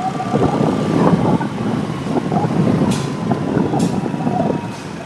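Motorcycle riding on a potholed road: a loud, steady rumble of engine and road noise, with two short sharp clicks about three and nearly four seconds in.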